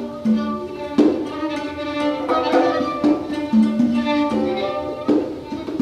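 A small acoustic ensemble playing free improvisation: held, pitched notes with sharp struck accents about every two seconds.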